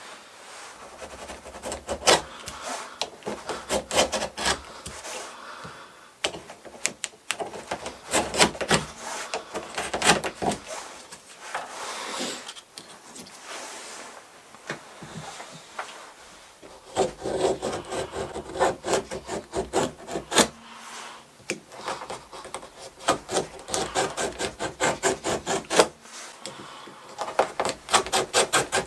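Repeated short rasping strokes as excess leather is trimmed from the edges of a leather-backed sharpening stone. The strokes come in runs with short pauses, several strokes a second in the faster runs.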